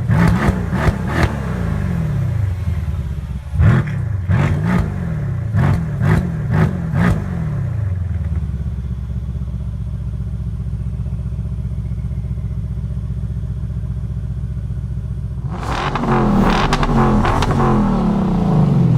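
Mercedes C63 AMG's 4.0-litre twin-turbo V8 through a Guerrilla bypass exhaust, blipped repeatedly with pops and crackles as the revs fall. It then idles steadily for about eight seconds and is revved again near the end.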